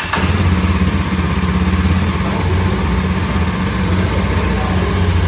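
Yezdi motorcycle's single-cylinder engine and exhaust running steadily at idle, with an even low, unchanging note.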